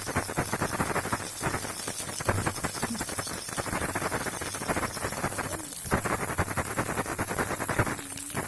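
A baby rattle shaken continuously, a fast dense clatter that stops briefly twice, about six and eight seconds in.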